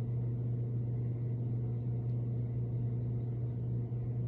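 Steady low mechanical hum, with fainter higher tones held steady above it.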